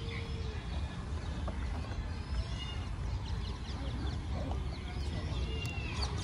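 Several birds chirping and calling in short, scattered notes over a steady low rumble.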